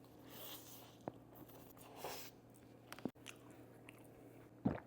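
Close-up mouth sounds of a person biting and chewing Panda Express chicken: soft wet chewing with scattered small clicks and a louder bite near the end.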